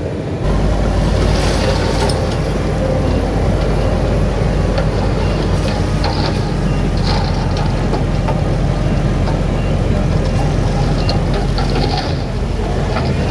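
Heavy diesel engine of earth-moving machinery running under load, with brief higher-pitched scraping or squealing sounds now and then. It steps up in loudness about half a second in.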